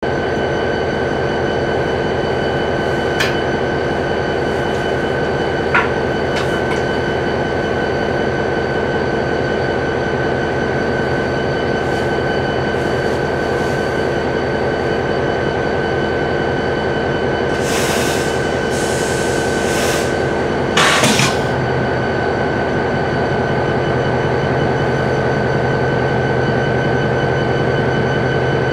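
Diesel locomotives of an approaching freight train running, a steady low rumble with a high whine held over it. Brief bursts of hiss come about two-thirds of the way through.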